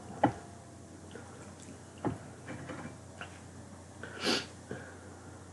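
Eating sounds at the table: a sharp click just after the start and another about two seconds in, a few faint ticks, and a short breath through the nose about four seconds in.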